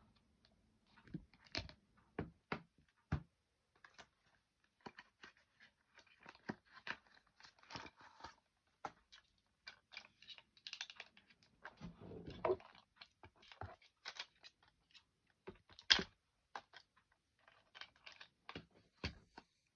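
Hands handling a phone and plastic case packaging: irregular light taps and clicks with bursts of crinkling plastic, a longer scraping rustle about twelve seconds in, and one sharper click about four seconds later.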